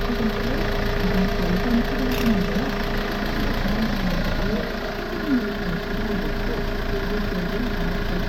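Hyundai Porter truck's engine idling steadily, with a voice from the radio faintly over it.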